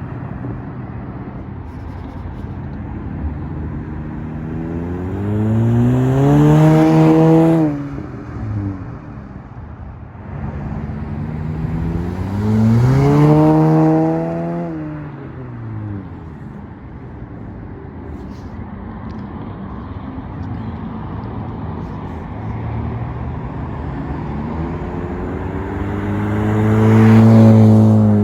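2020 Honda Civic LX exhaust with the muffler deleted (resonator kept, tip added), revved three times from idle: two quick rises and falls, then a slower climb that is the loudest near the end. Wind noise on the microphone runs underneath.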